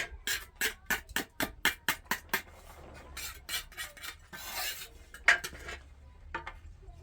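A mason's trowel scraping and clinking against mortar, about four quick strokes a second for a couple of seconds, then a few more strokes, a longer scrape and one last clink.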